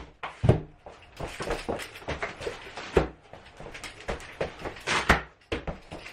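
Boxes being set down and shifted on a newly laid floating cork floor: a run of irregular knocks and scuffs, the heaviest thuds about half a second in, midway and about a second before the end.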